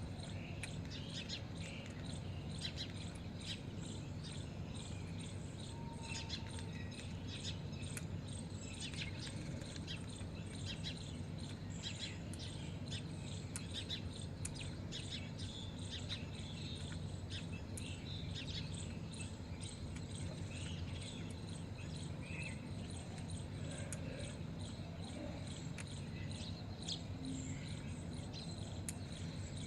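Many small birds chirping and twittering in quick short calls, busiest in the first half, over a steady low hum.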